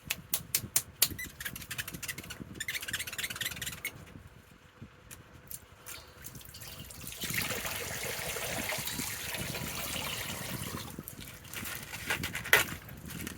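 Water trickling and pouring, with a run of sharp clicks in the first two seconds and one louder knock about twelve seconds in.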